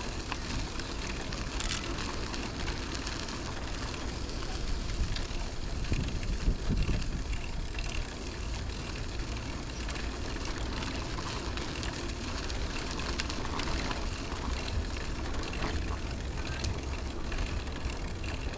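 Riding noise of a bicycle on a park path: wind rushing over the microphone with the rumble of the rolling bike and scattered light rattles, briefly louder about six seconds in.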